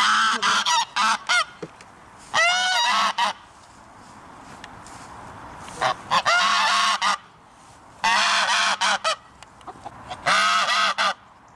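Goose honking in repeated bouts of several quick, nasal honks, about five bouts a couple of seconds apart.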